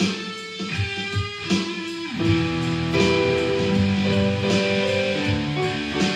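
Acoustic guitar strummed, playing chords with regular strokes and ringing notes.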